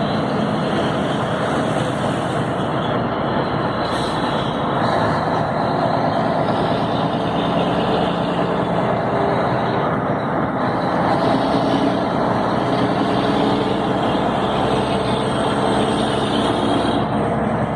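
Scania 112 truck's six-cylinder diesel engine running steadily while driving, over a constant rush of road noise.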